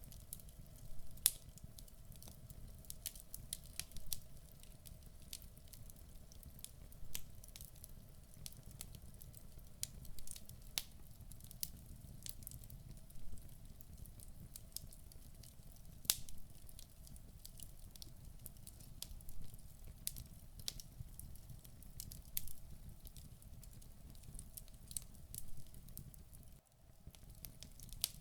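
Wood fire burning in a fireplace, logs crackling with irregular sharp pops and snaps over a low steady rumble of flame. There is a brief drop-out near the end.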